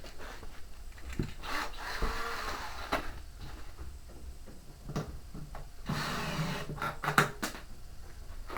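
Hands and tools working on washing-machine parts: scattered knocks and clicks with two stretches of scraping and rattling, the sharpest click about seven seconds in.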